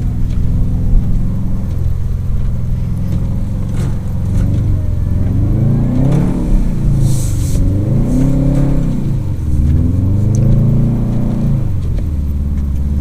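Subaru WRX STi's turbocharged flat-four engine running steadily, then revving up and down in three long swells from about five seconds in, with a short hiss partway through.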